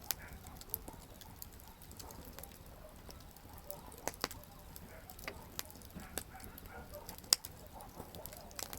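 Wood campfire crackling: irregular sharp pops and snaps from burning firewood, the loudest about seven seconds in, over a low steady rumble of flames.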